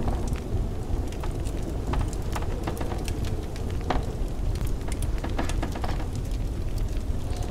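Wood fire crackling in a fireplace, with frequent small pops and snaps over a steady low rumble of blizzard wind.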